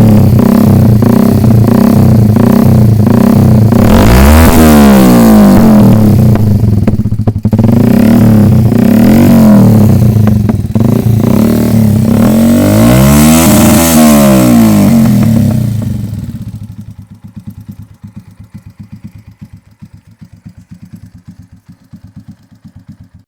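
A 150cc motorcycle engine revving loud and deep, sounding far bigger than its size, with rises and falls in pitch about four seconds in and again around thirteen seconds. After about sixteen seconds it drops away to a much quieter, even putter.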